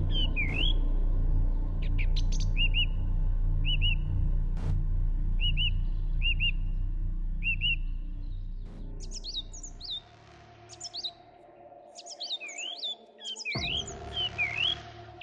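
Songbirds calling: short chirps repeated in quick pairs and runs, over a low music drone that fades out about two-thirds of the way through.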